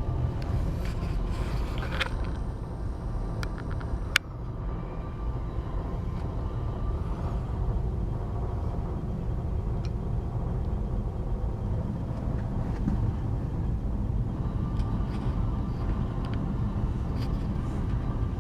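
Steady low rumble of city street traffic, with a single sharp click about four seconds in.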